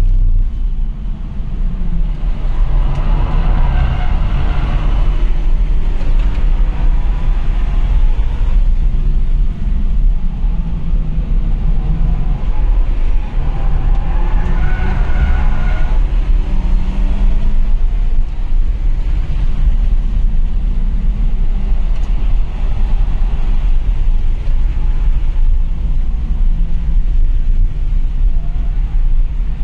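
Car engine and road noise heard from inside the cabin at speed: a steady deep drone, with the engine note coming up strongly twice under hard acceleration, a few seconds in and again about halfway through.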